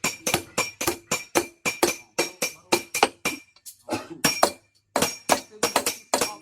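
Blacksmith's hammer striking a sickle blank on an anvil, rapid blows about four a second, each with a bright metallic ring. The hammering breaks off briefly a little past the middle, then picks up again.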